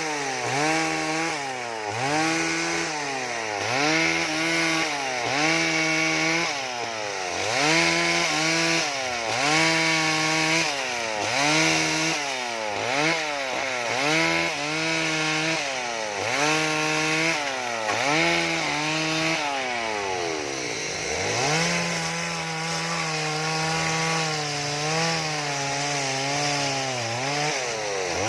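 Two-stroke chainsaw revved up and let back down over and over, about once every second and a half, making short carving cuts into wood. About two-thirds of the way in it is held at full speed for several seconds.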